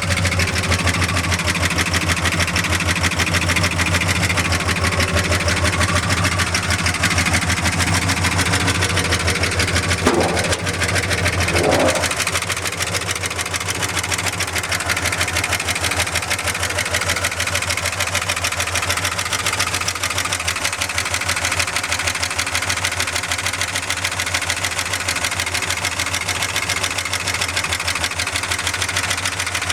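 Warmed-up Ford 390 FE V8 idling steadily through new headers and exhaust, with an even, rapid firing pulse. About ten to twelve seconds in there are a couple of brief sounds, after which the idle runs slightly quieter.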